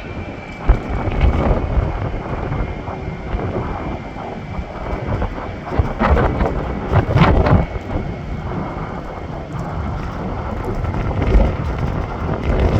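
Strong gusty wind buffeting the microphone in loud rumbling gusts, with the faint whine of a jet airliner's engines on approach, slowly falling in pitch.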